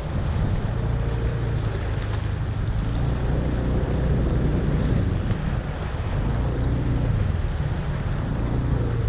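Flooded street: a steady low rumble of moving floodwater and running vehicle engines, with wind buffeting the microphone.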